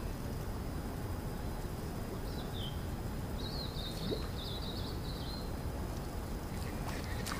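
A small bird twittering high and warbling, briefly about two seconds in and again for a couple of seconds from about three and a half seconds, over a steady low background rumble.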